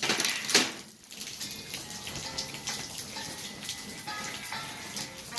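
Heavy rain falling, a steady hiss, with a louder rush of it in the first second.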